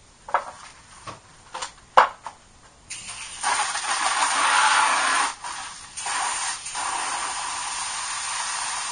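A few sharp clicks and knocks, then about three seconds in a hose starts spraying water into a bucket, a steady hiss that is loudest at first and runs on as the bucket of car-wash soap fills.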